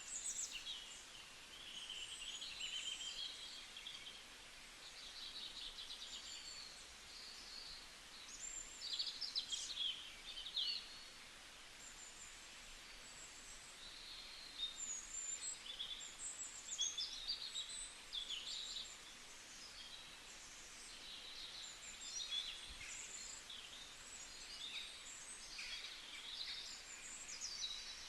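Several birds chirping and singing, with short calls and quick whistled notes overlapping throughout over a faint background hiss.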